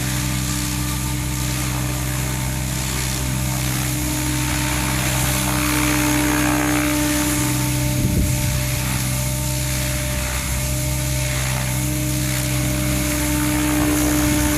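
Battery-powered Goblin 700 R/C helicopter in flight, a steady drone of rotor blades and electric motor whose whine swells twice and eases off again.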